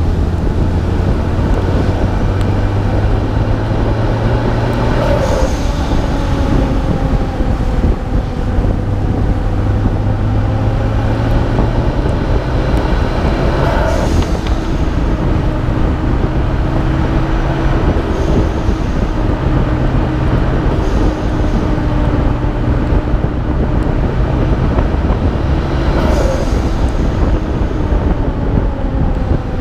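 Nissan Skyline R32 GT-R's twin-turbo straight-six running up and down through the revs, over a steady rush of wet-road and wind noise on the hood-mounted microphone. Three short hissing bursts, about five, fourteen and twenty-six seconds in, are typical of the turbo blow-off valve venting as the throttle closes.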